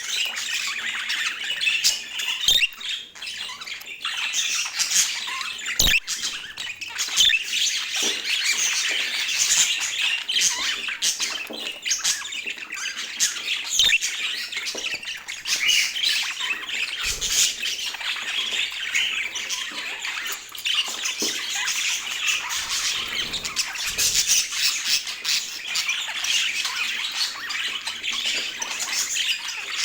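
Budgerigars chattering and squawking without a break, a dense warbling chatter with a few sharp clicks among it.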